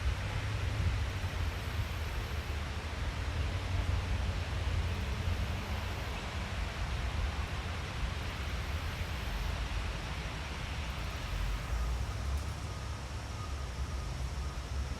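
Steady forest ambience: an even rushing noise with a low rumble underneath, and a faint thin tone in the last few seconds.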